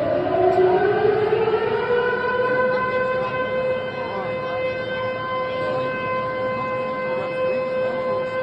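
A siren winds up in pitch over the first couple of seconds, then holds one steady wail, over the noise of the crowd.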